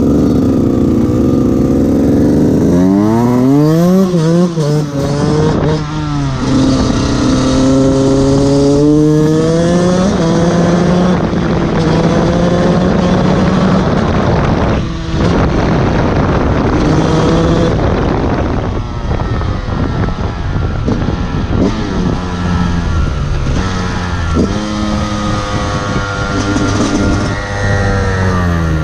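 Fantic XE 125 enduro motorcycle's engine revved hard, its pitch climbing repeatedly and dropping back as the throttle is worked and gears change, with a brief throttle-off about halfway through.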